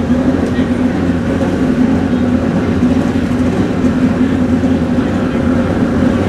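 Pro Xtreme drag-racing motorcycle engines running loud and steady at a constant engine speed, with no revving up or down.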